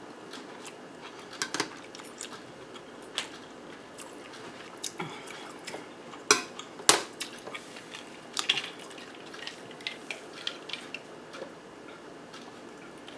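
Eating utensils clicking and scraping against a plate: scattered light clicks and taps, the two sharpest a little past halfway.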